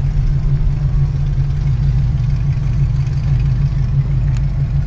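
A car's engine running steadily, a low drone heard from inside the cabin.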